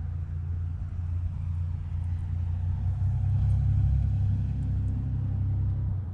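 A motor vehicle's low engine rumble that grows louder toward the middle, then eases off and drops away sharply at the end.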